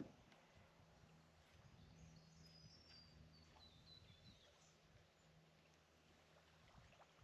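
Near silence: faint outdoor ambience with a low steady hum, and a bird's short call of high notes stepping downward in pitch about two to four seconds in.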